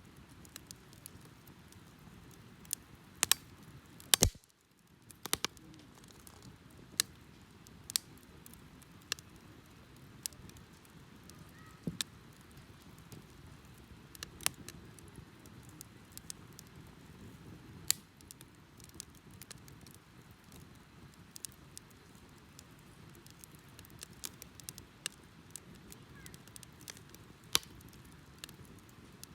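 Wood bonfire burning: a low, steady rush of flame with sharp, irregular crackles and pops of burning wood, the loudest a cluster of pops about three to four seconds in.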